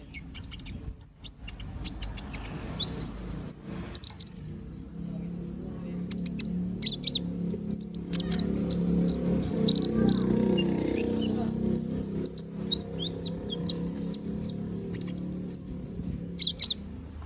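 A kolibri ninja (konin) sunbird singing a fast, busy song of short high chirps and quick downward-slurred notes, with a brief lull a few seconds in. A low hum runs underneath, louder in the middle.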